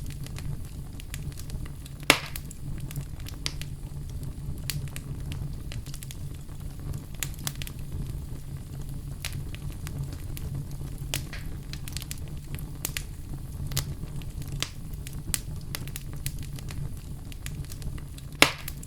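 Wood fire crackling over a steady low rumble, with frequent sharp snaps and two louder pops, one about two seconds in and one near the end.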